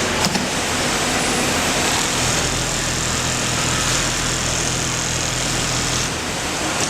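Automatic pattern sewing machine running, a steady mechanical whir with a low hum that cuts off about six seconds in. A single click sounds near the start.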